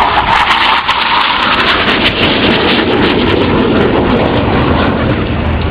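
Aircraft flying past at an airshow display, a loud roar that drops in pitch as it goes by.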